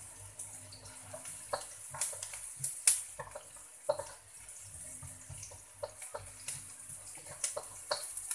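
Onions sizzling in hot oil in a wok, with a spatula scraping and knocking against the wok at irregular moments.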